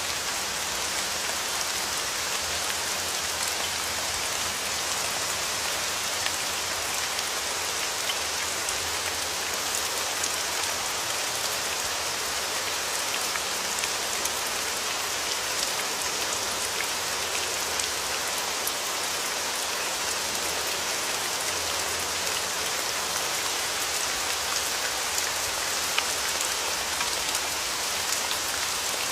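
Steady rain falling on a surface, a dense even hiss with fine pattering drops throughout.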